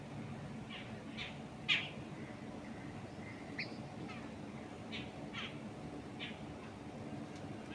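Birds chirping: about nine short, falling calls, spaced irregularly, the loudest nearly two seconds in, over a steady low rush of wind in trees.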